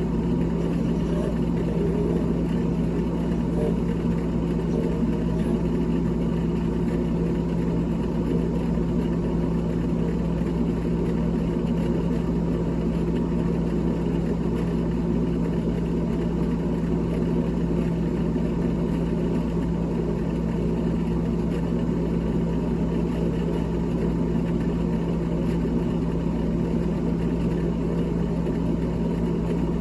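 A small electric motor running steadily with a constant low hum and an even whir, unchanging throughout.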